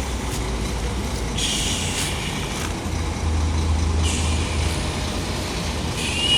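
Liugong CLG922E crawler excavator's diesel engine running with a steady low rumble. A hiss recurs about every two and a half seconds, each time opening with a short high squeal.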